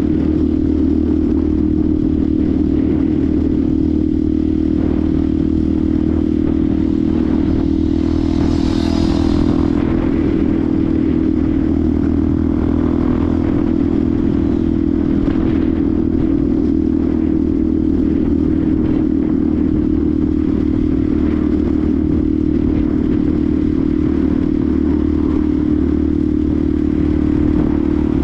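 Benelli TNT 125's single-cylinder engine running at a steady speed while riding, its pitch holding level. A brief rushing hiss rises and fades about nine seconds in.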